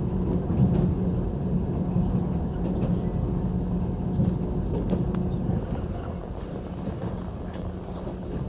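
Running noise of a JR 185 series electric train heard from inside the car: a steady low rumble with a hum and a few faint rail clicks, easing a little after about six seconds.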